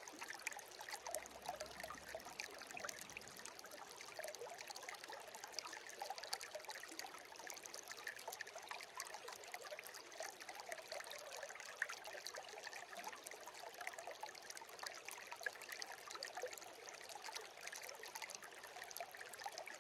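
A shallow stream babbling and trickling, a steady splashing with many small bright bubbling spots.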